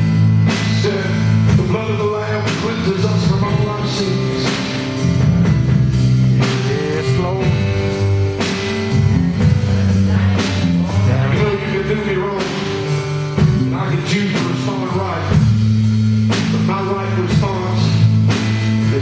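Live gospel praise band playing: drum kit, bass guitar and piano, with a voice singing at times over the steady beat.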